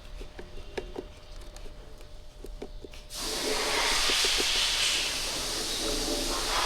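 A few light clicks, then about three seconds in a loud, steady rush of hissing air starts abruptly and keeps going.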